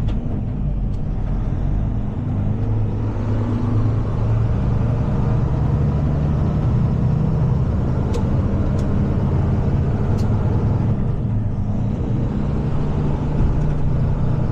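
Heavy tow truck's diesel engine running steadily while driving with a truck in tow, a continuous low drone, with a few faint ticks in the middle.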